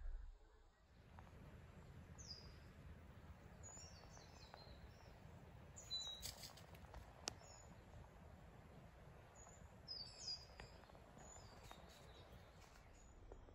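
Faint bird chirps: several short, high calls come and go over a low steady rumble, with one sharp click about seven seconds in.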